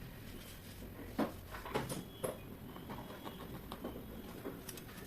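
Scattered light knocks and clicks of metal engine parts and hand tools being handled during a scooter engine overhaul.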